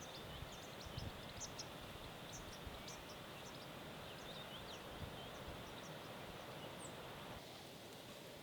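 Steady rain hiss with many short, high bird chirps over it and a few soft low knocks.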